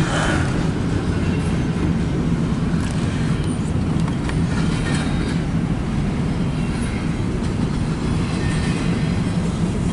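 Double-stack intermodal freight train's well cars rolling past: a steady rumble of steel wheels on rail, with clickety-clack over the rail joints.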